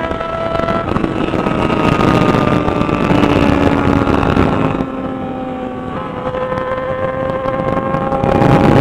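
Yamaha XJ6 inline-four motorcycle engine running while riding, its pitch changing about a second in and again about six seconds in, with wind noise on the microphone.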